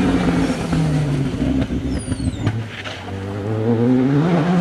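Rally car engine running hard, its pitch falling over the first couple of seconds, then climbing again as it revs up about four seconds in.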